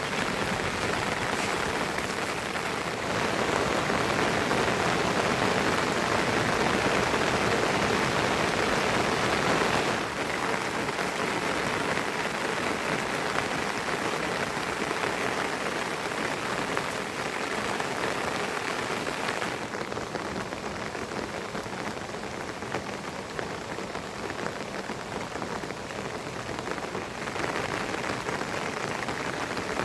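Rain falling steadily, an even dense patter of drops. Its loudness shifts abruptly a few times, stepping up a few seconds in and dropping back down at about ten and twenty seconds in.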